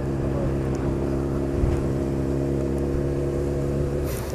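1000cc inline-four sportbike engine running at steady, low revs while carrying a pillion passenger, its note dropping away near the end.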